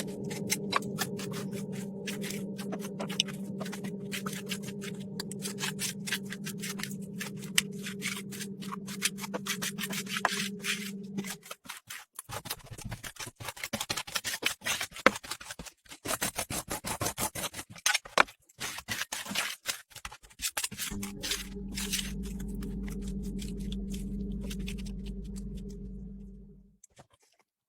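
Metal spatulas scraping, chopping and tapping on the frozen steel plate of a rolled ice cream machine, in quick irregular strokes. For much of it a steady machine hum runs underneath, and everything stops shortly before the end.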